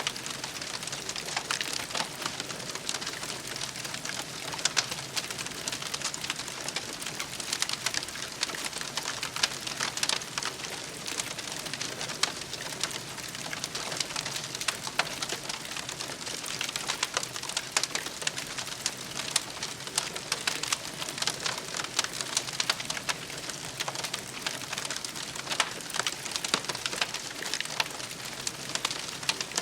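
Campfire burning with a steady hiss and many sharp crackles and pops throughout.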